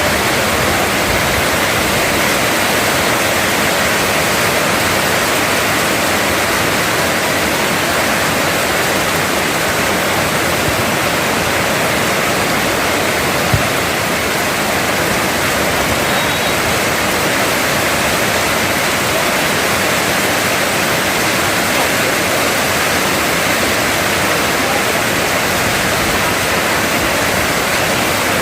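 Heavy rain pouring down, a loud steady hiss with no let-up, broken only by a single brief click about halfway through.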